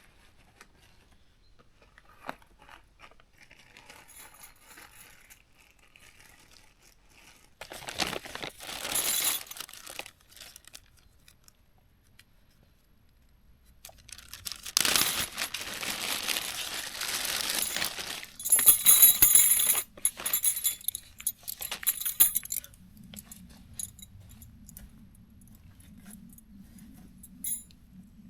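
Tent being set up: bursts of nylon fabric rustling with light metallic clinks and clicks of poles or pegs, the loudest stretch a bit past the middle.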